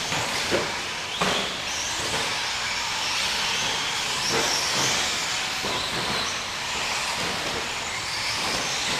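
Several nitro-powered RC short course trucks racing on a dirt track: a steady high-pitched buzz of small glow engines with wavering whine, broken by a few sharp knocks of trucks landing or hitting one another.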